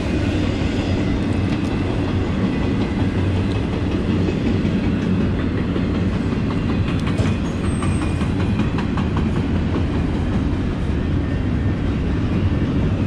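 A train passing close by: a steady heavy rumble with the clatter of wheels over the rail joints.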